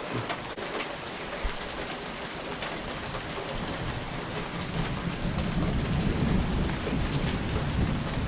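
Heavy rain pouring down and pattering on surfaces, getting heavier. A low rumble of thunder builds from about halfway through.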